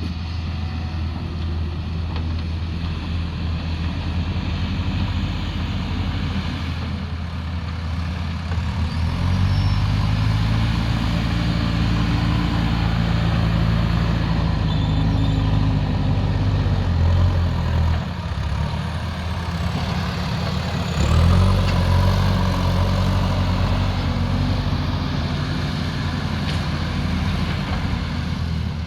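Diesel engine of a heavy earthmoving machine running throughout as it works. It revs up about 9 seconds in, settles back near 18 seconds, and revs up sharply again about 21 seconds in.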